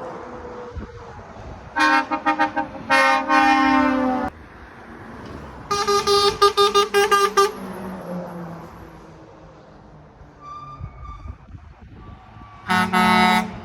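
Lorry air horns sounding from passing trucks. There is a string of short toots then a long blast about two seconds in, a run of quick toots around six seconds, a fainter horn near eleven seconds, and a final loud blast near the end. Truck engines can be heard between the horns.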